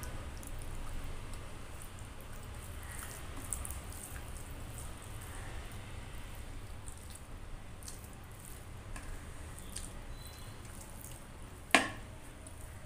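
Wet chewing and mouth sounds of someone eating rice and curry by hand, with scattered small sticky clicks. A single sharp knock stands out near the end.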